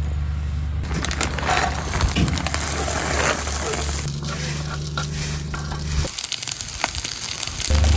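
Frozen fried rice being cooked in a hot pan: crunching and sizzling as it is stirred. A steady low hum runs underneath, cuts out about six seconds in and comes back near the end.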